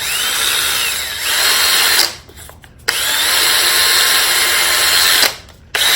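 Cordless drill running at high speed in three bursts, spinning a hand-plane screw against 1200-grit sandpaper to polish it. Each burst starts with a rising whine as the drill spins up, under a steady sanding hiss.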